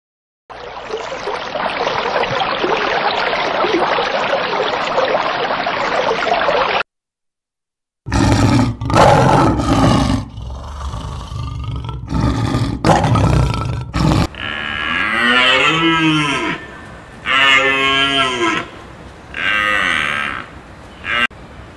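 Cattle calling: a run of short mooing calls, each rising and falling in pitch, repeated about once a second in the last third. Before them comes about six seconds of steady noisy hiss, a short silence, then several loud, rough low sounds.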